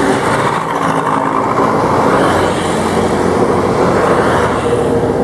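Propeller aircraft engine running steadily: a loud, even drone with a steady low hum, swelling slightly in the middle.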